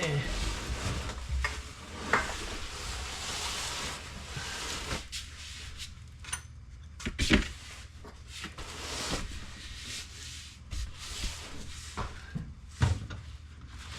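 WD-40 aerosol spray hissing onto truck bolts and threads, followed by scattered clicks and knocks of hardware being handled.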